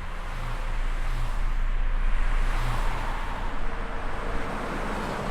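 A rushing noise with a deep rumble underneath, swelling to its loudest about two to three seconds in and easing off toward the end.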